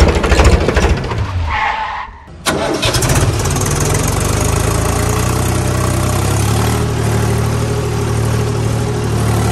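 A vehicle engine running, which dies away about two seconds in and then starts abruptly and runs on steadily.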